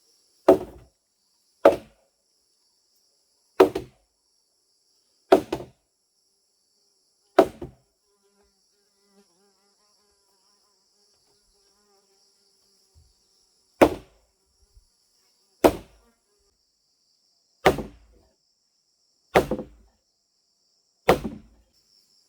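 Repeated heavy strikes of a tool on wood, one about every one and a half to two seconds, with a pause of about five seconds in the middle. Insects buzz steadily and faintly in the background.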